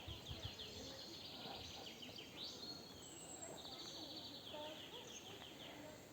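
Faint outdoor ambience of small birds chirping, with a rapid high trill that comes in runs at the start and again midway.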